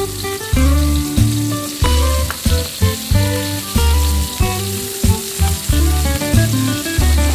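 Sliced shallots and chilies sizzling and frying in hot oil in a wok, stirred with a wooden spatula, under background music with a steady bass beat.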